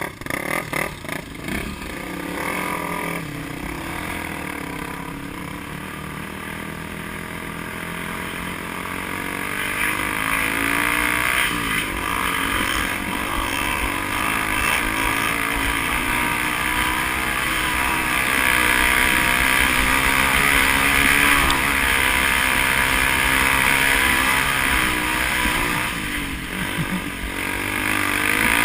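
Vehicle engine running hard on a winding road, its pitch rising and falling repeatedly as it accelerates and slows, with road and wind noise that grows louder after about ten seconds.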